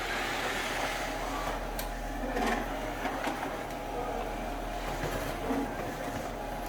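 Samsung 8980 vacuum cleaner running steadily, a motor whine over airflow noise, with a few short knocks a couple of seconds in.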